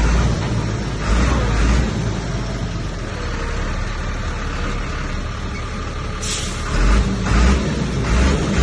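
Diesel engine of heavy earthmoving machinery running steadily. Its deep rumble swells twice, about a second in and again near the end, and a short hiss sounds about six seconds in.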